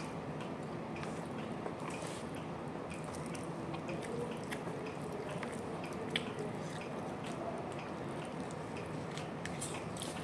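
A person chewing a mouthful of rice and fish, with scattered small wet clicks and smacks from the mouth and from fingers working the rice, over a steady low hiss.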